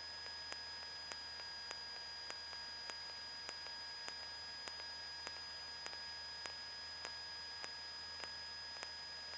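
Steady electrical hiss in the cockpit audio feed, with faint steady whine tones and a sharp tick repeating regularly, a little under twice a second.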